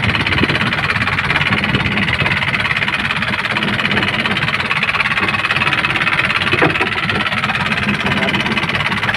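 Fishing boat's engine running steadily with a fast, even low rumble.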